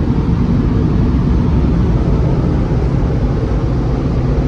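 Car wash air dryer blowers blowing over the car, a loud steady rush of air heard from inside the car.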